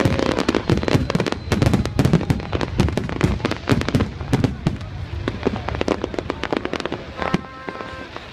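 Fireworks going off in rapid succession: a dense crackle of sharp bangs that thins out about halfway through. A short held tone sounds near the end.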